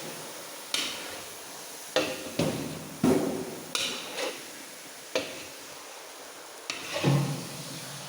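Metal ladle knocking and scraping against a large kadai as chicken pieces are stirred into the fried onion masala: about eight irregular clanks and scrapes over a steady hiss.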